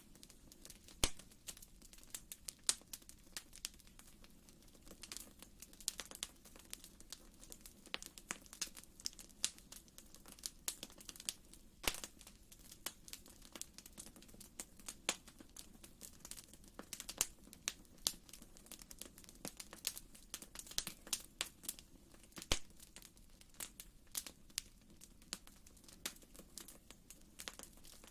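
Fireplace fire crackling, with many sharp, irregular pops and snaps over a faint low steady background.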